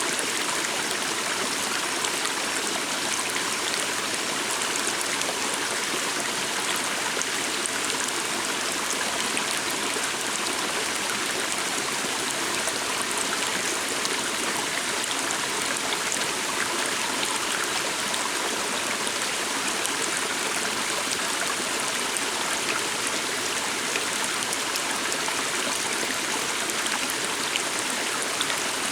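Steady rush and gurgle of a flowing stream, even and unbroken.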